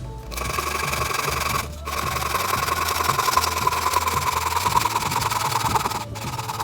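A small power saw cutting through firewood: a fast, steady buzzing with a pitch that sinks slowly. It breaks off for a moment just before two seconds in, then carries on.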